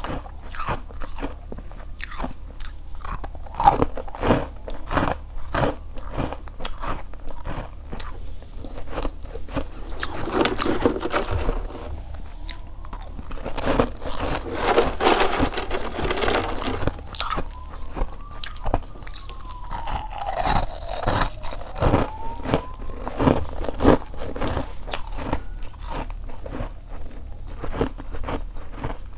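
Close-miked biting and chewing of freezer frost: a dense, irregular run of crisp crunches as the packed ice is bitten and ground between the teeth.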